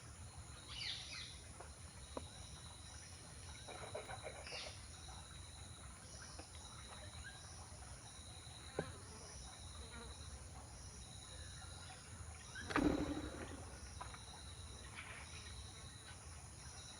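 Insects trilling in a steady, evenly pulsing chorus, with a few short bird calls and one louder, lower call about two-thirds of the way through.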